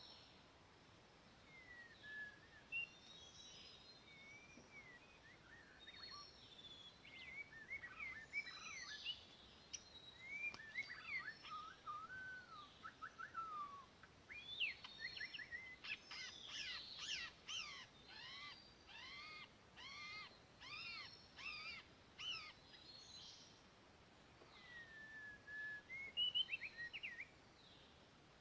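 White-rumped shama (murai batu) singing: a run of varied, clear whistled phrases, sparse at first and busiest past the middle, with a string of repeated arching notes.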